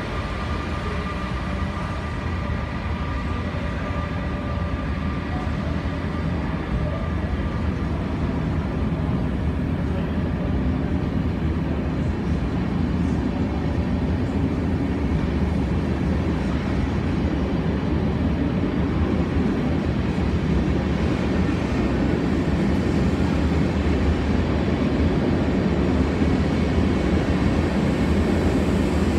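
An SBB Re 460 electric locomotive and its train of passenger coaches rolling past on a station track. A few steady whining tones fade out over the first few seconds. Then the low rumble of the coaches' wheels on the rails grows steadily louder.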